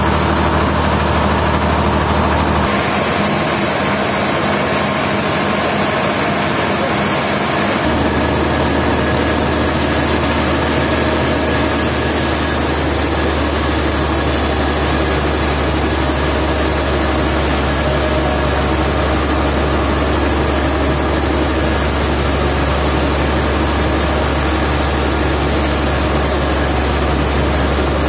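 Sawmill engine running steadily. Its low drone shifts about three seconds in and again about eight seconds in.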